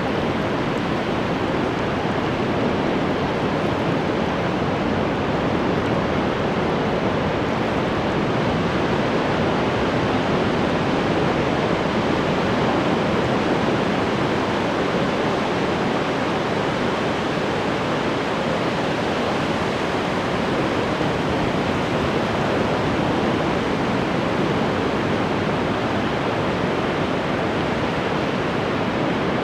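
Ocean waves breaking in a steady, unbroken rush of surf, swelling slightly about halfway through.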